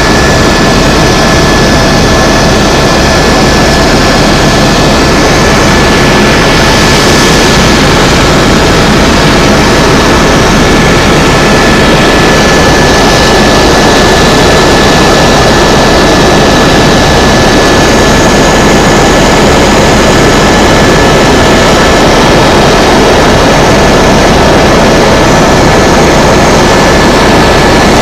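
Tour helicopter in flight: steady, loud turbine engine and rotor noise, with a constant high-pitched whine over it.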